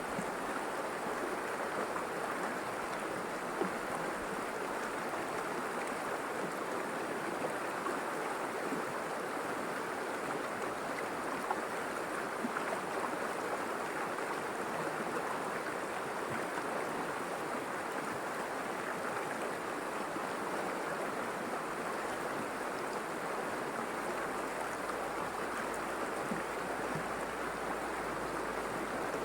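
A river's water rushing and babbling steadily over rocks, an even, continuous sound.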